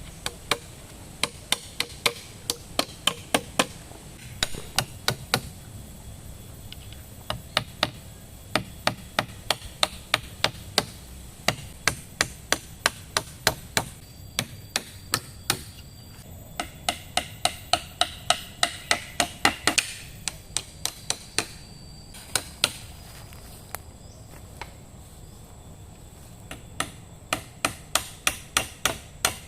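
Rapid sharp blows of a tool on wood, in runs of several strokes at about three a second, with short pauses between the runs.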